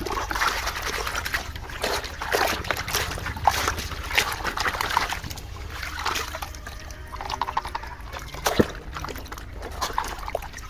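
Water sloshing and splashing as a plastic toy bus is swished and scrubbed in a tub of water, with irregular knocks and clicks of the toy against the container.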